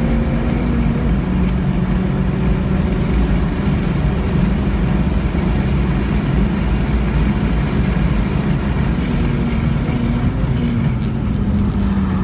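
Acura ILX engine running hard at steady high revs with road and wind noise. Its pitch steps slightly about a second in and again near the end.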